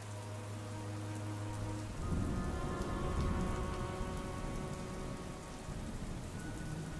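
Steady soft rain falling, a continuous hiss with scattered drop ticks, over held ambient synth chords that change about two seconds in. A low rumble swells at the same time, like distant thunder.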